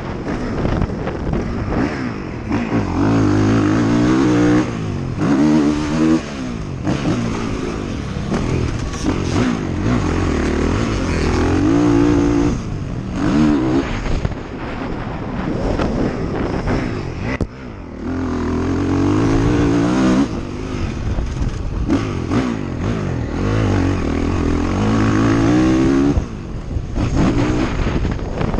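Off-road vehicle engine under riding load, revving up and dropping off again and again with short breaks between pulls, with wind noise on the microphone.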